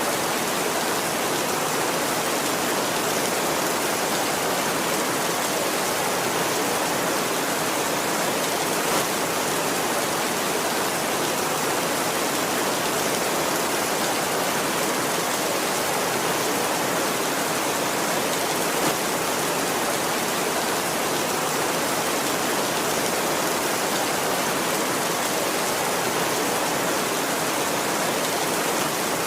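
Heavy rain falling steadily on a tin roof, an even, dense hiss.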